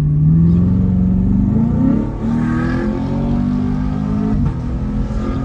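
Chevrolet Camaro 2SS's 6.2-litre V8 accelerating through a newly fitted aftermarket exhaust, loud: the engine note rises for about two seconds, drops at an upshift, holds, then drops again near the end.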